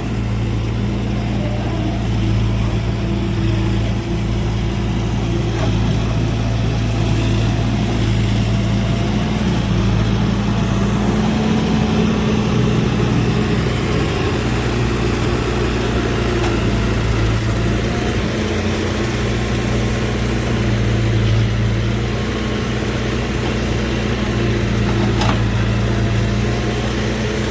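Heavy diesel farm machinery running steadily at a constant speed, a deep even drone with no change in pace. A single sharp click near the end.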